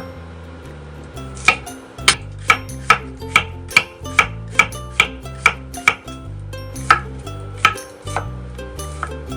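A kitchen knife chopping against a cutting board in sharp, even strokes of about two or three a second, thinning out after about six seconds. Background music with a bass line plays underneath.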